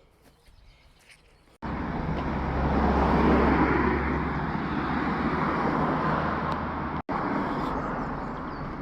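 Faint outdoor ambience, then about a second and a half in a sudden jump to loud road traffic noise, swelling as a vehicle passes and then easing off. A brief dropout comes near the end.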